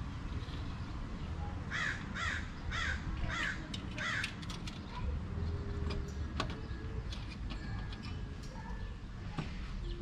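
A bird calls five times in quick succession, about half a second apart, followed by a few faint clicks and taps.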